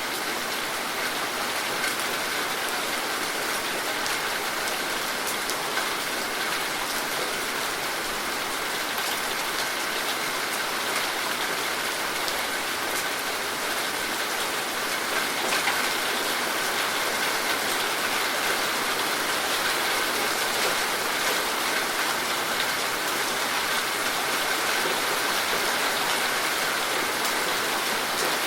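Steady rain falling, with a constant hiss of many small drops pattering on surfaces.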